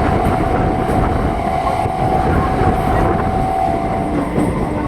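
Howrah–Bandel suburban electric local train running, a loud steady rumble with a steady high tone that stops about four seconds in.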